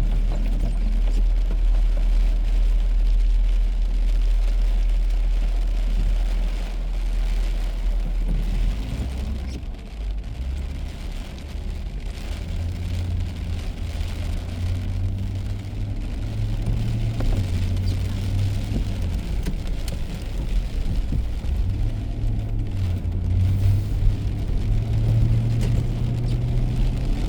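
Car driving on a wet road in the rain: steady engine and road noise. From about a third of the way in, the engine note rises and shifts in steps as the car speeds up.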